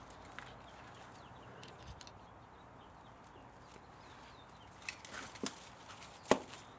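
Low background hum with a few short sharp knocks near the end, the last one the loudest.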